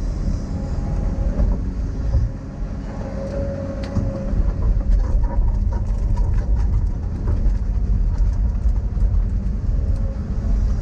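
Excavator's diesel engine running steadily under load while digging, with scattered clanks and knocks from the machine's working.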